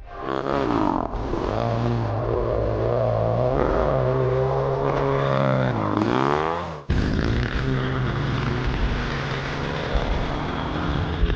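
Small 110cc four-stroke pit bike engine being ridden hard, its pitch rising and falling as the throttle is opened and shut through gears and corners. About seven seconds in the sound cuts off abruptly and comes straight back as a rougher, steadier engine note.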